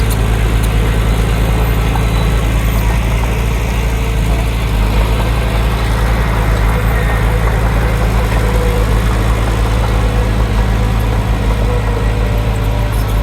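Heavy construction machine's diesel engine running steadily at an even, low pitch, with no revving or change in load.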